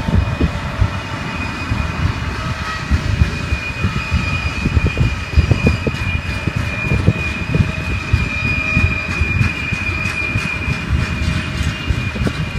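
A freight train's wagons rolling past, a continuous rumble of wheels on the rails with irregular low knocks. A thin, steady high whine rides over it and is strongest through the middle.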